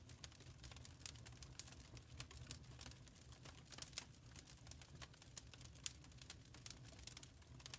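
Wood fire crackling in a fireplace: faint, irregular pops and snaps over a low steady rumble of the flames.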